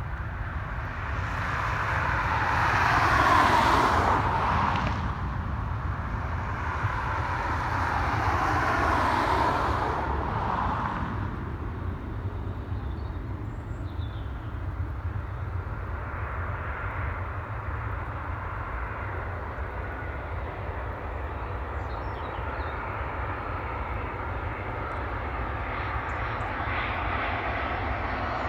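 Airliner engine noise passing close, swelling loudly twice in the first ten seconds and then settling to a steadier, weaker drone that builds again near the end.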